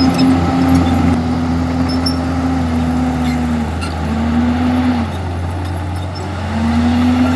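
Komatsu D51EX bulldozer's diesel engine running under load, its note sagging a little past the middle, dipping again, then climbing back up near the end.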